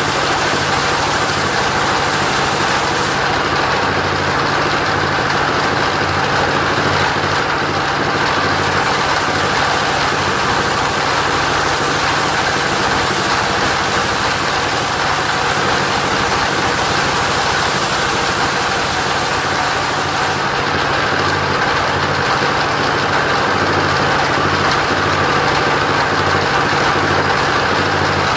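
Portable sawmill's engine running steadily under a broad rushing hiss, whose highest part fades twice for several seconds.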